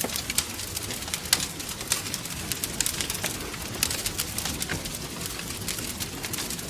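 Wood fire crackling in a fireplace: a steady stream of irregular sharp pops and snaps over a soft hiss, with a few louder pops.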